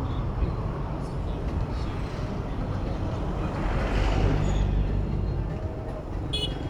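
Road traffic noise heard from a bicycle in city traffic: a steady low rumble of engines and tyres that swells for a second or two in the middle, with a brief high squeak near the end.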